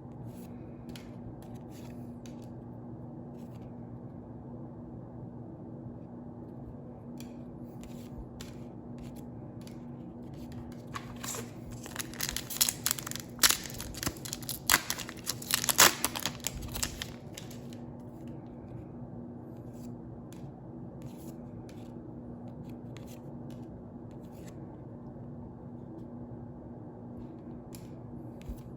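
Foil Pokémon booster pack being opened, with crinkling and tearing for several seconds in the middle. Light clicks and taps from handling cards come before and after, over a steady low hum.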